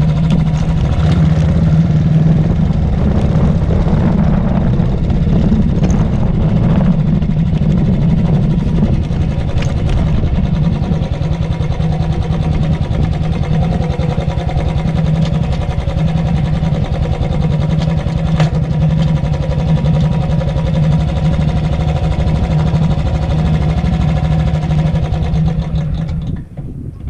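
Royal Enfield Thunderbird's single-cylinder four-stroke engine running with a steady, low thump. The sound falls away sharply near the end.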